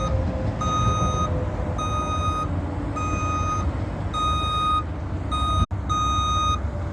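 Heavy truck's back-up alarm beeping at a steady pace, a beep a little over a second apart, over the low rumble of a diesel engine running.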